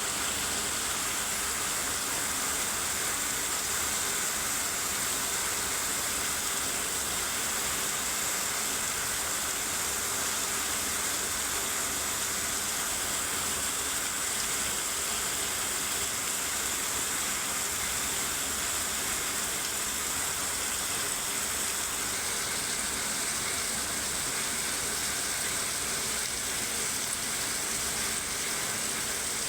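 Steady rainfall, an even hiss of falling drops that holds at the same level throughout.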